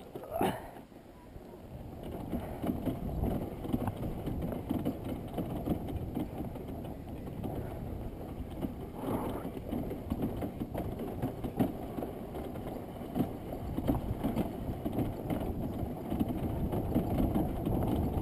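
Dirt bike engine running, its sound swelling and dropping unevenly as the throttle is worked.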